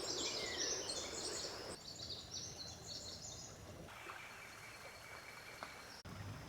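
Birds chirping and singing in quick high notes over a steady outdoor noise, changing abruptly twice as the sound cuts between recordings. About four seconds in, the birdsong gives way to a thin, steady high tone.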